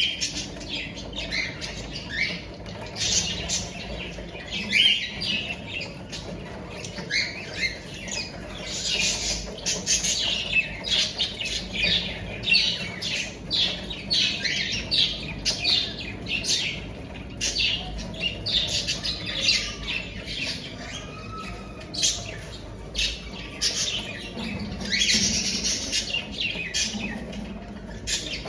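Cockatiels squawking: a continual run of short, harsh, raspy calls, many overlapping.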